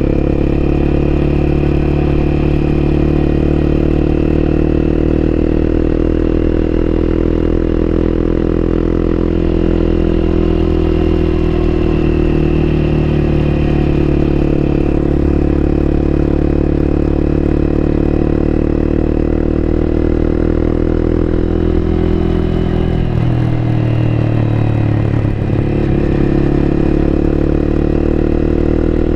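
Honda CBR250R's single-cylinder engine running at fairly steady revs, heard from on board the moving motorcycle. About two-thirds of the way through the revs drop briefly, then pick up again.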